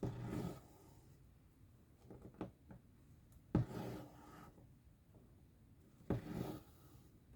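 Cross-stitch needle and thread being drawn through fabric: three short rasping pulls, each starting with a soft tick, spaced a few seconds apart, with a few lighter ticks between them.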